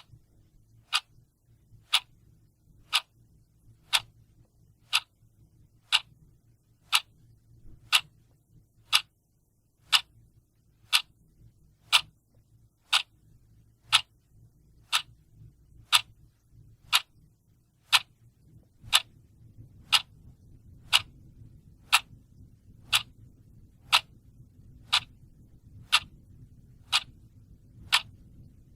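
Clock ticking steadily, one sharp tick each second, over a faint low background hum.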